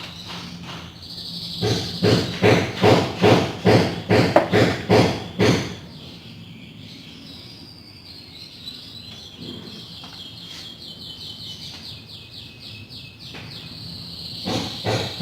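Hand rubbing strokes on wood, back and forth about twice a second, for the first five or six seconds, then crickets chirping in fast, high trills.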